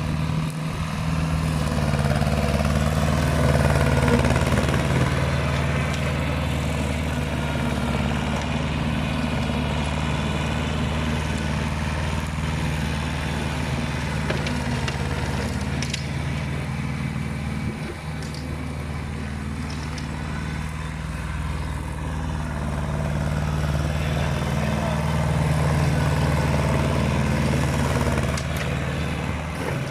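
Kubota L1501 compact tractor's diesel engine running steadily, its note swelling slightly a couple of times.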